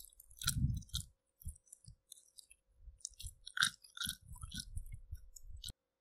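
A person chewing a bite of crispy oatmeal cake, a run of crunchy, crackly bites. The chewing cuts off suddenly near the end.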